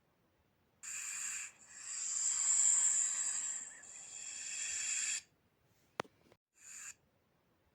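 Snake hissing: a short hiss, then a long drawn-out hiss lasting several seconds, then a sharp click and one more brief hiss near the end.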